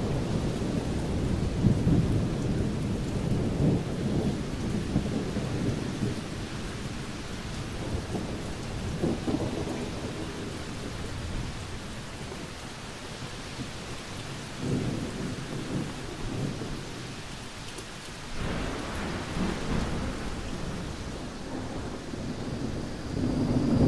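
Thunderstorm: thunder rumbling over steady heavy rain. The rumbling dies away toward the middle, a new roll starts about two-thirds of the way in, and a louder one builds at the end.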